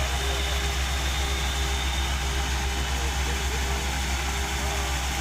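Engine of harvesting machinery running steadily at a constant speed, a deep even hum with no change in pace.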